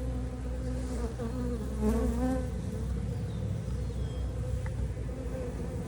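Many honeybees buzzing around an opened hive: a steady hum whose pitch wavers a little as individual bees fly close and away. The colony is active and stirred up by the frame inspection.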